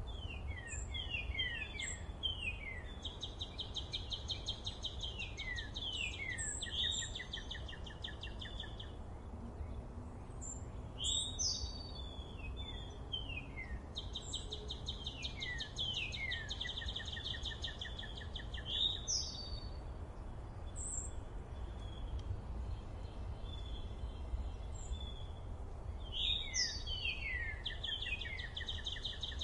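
A songbird singing a repeated phrase: a quick run of falling notes, then a fast trill held on one pitch for a few seconds, coming again every several seconds. Under it runs a steady low background rumble.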